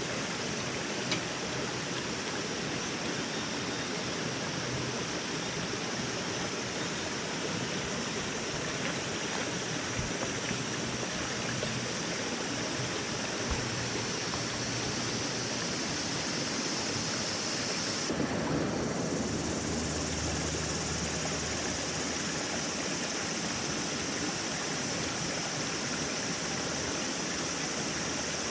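Steady outdoor rushing noise, like running water or wind, with a few faint clicks; its tone shifts about two-thirds of the way through.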